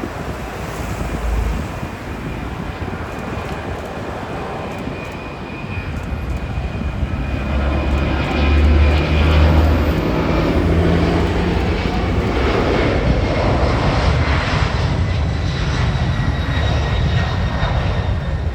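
Boeing 767-300 freighter's twin turbofan engines at takeoff power. The jet roar with its deep rumble grows louder about six seconds in and stays loud, with a thin whine from the engine fans over it.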